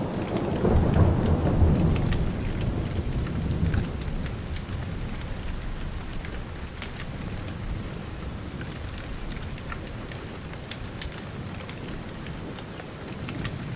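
Steady rain falling, with scattered drops pattering, and a low roll of thunder that swells in the first couple of seconds and fades away; another rumble of thunder begins near the end.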